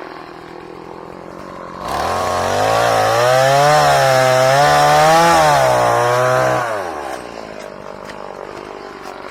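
Two-stroke chainsaw that revs up from idle about 2 s in and runs at high speed for about five seconds, its pitch wavering up and down as it cuts wood. It then drops back to idle.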